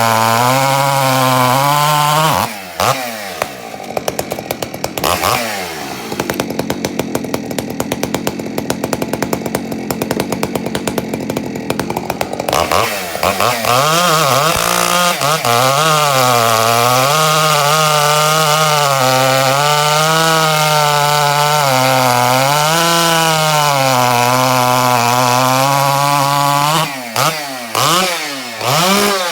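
Husqvarna 372XP two-stroke chainsaw with a homemade Ironhorse-style muffler, loud. It runs at full throttle, drops to idle about two seconds in with a quick rev soon after, then goes back to full throttle about halfway through. There the pitch sags and recovers as the chain works through hardwood, before the revs fall away near the end.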